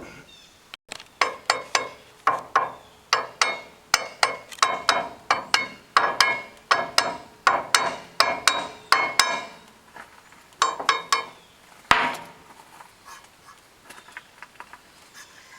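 A hammer striking steel parts of a hydraulic cylinder being reassembled: a quick run of ringing metal blows, about two to three a second, then a pause and a few more blows.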